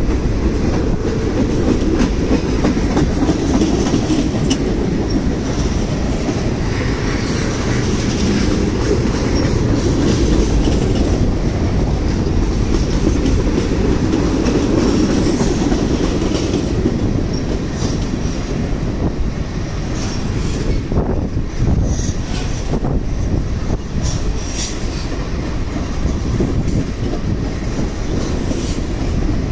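Freight train cars rolling past: a steady low rumble of steel wheels on rail, with clattering clicks over rail joints.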